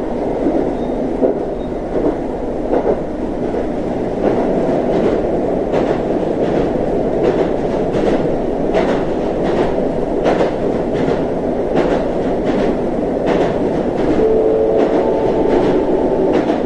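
Running noise of a local train heard from inside the carriage, with the wheels clicking irregularly over rail joints. A brief steady whine joins in near the end.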